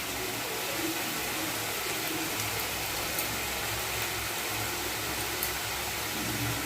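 Chicken cooking in spiced masala in a pan, giving a steady sizzle.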